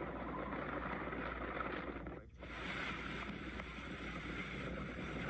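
Storm footage sound: steady rushing of wind and water with no clear pitch. About two seconds in there is a brief drop, then a hissier stretch.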